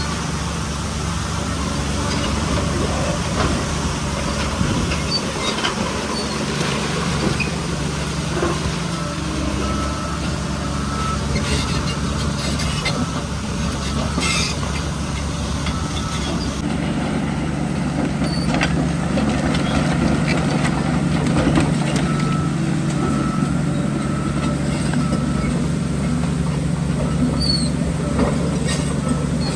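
Heavy diesel construction machinery running steadily under load, with scattered metallic clanks and knocks from the tracks, blade and stone. A faint, evenly repeating high beep runs in the background for much of the time.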